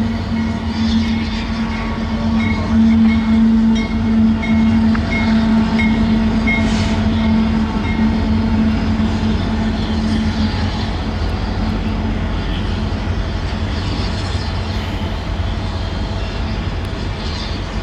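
Union Pacific diesel locomotives passing close with a freight train of autorack cars, their engines loudest about three to four seconds in. A high ding repeats evenly over the first several seconds, then the sound settles into the steady rumble of the rolling cars.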